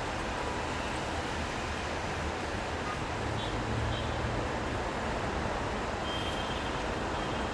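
City street traffic in the rain: a steady hiss of rain and tyres on the wet road, with a vehicle's low engine rumble swelling and fading around the middle.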